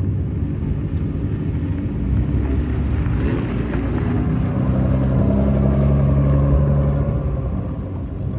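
Exhaust of an old Nissan Skyline "Hakosuka" running loud and low; about three seconds in the revs climb, hold higher for a couple of seconds, then drop back near the end.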